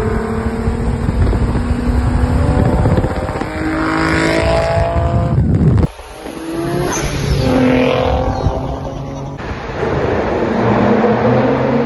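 Twin-turbocharged Infiniti G37's V6 engine accelerating hard, its pitch rising as it revs up. There is a sudden break about six seconds in, then the engine climbs again.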